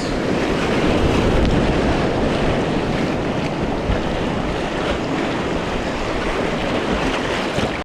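Steady rushing of creek water through a small riffle, mixed with wind noise on the action-camera microphone. It cuts off suddenly at the end.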